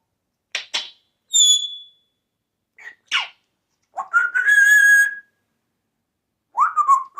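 African grey parrot clicking and whistling: a pair of sharp clicks, a short high whistle, more clicks, then a longer steady whistle with a buzzy edge, and a rising whistle near the end.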